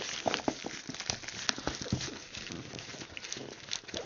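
Plastic packaging being crinkled and pulled open by hand, an irregular run of rustles and sharp crackling clicks.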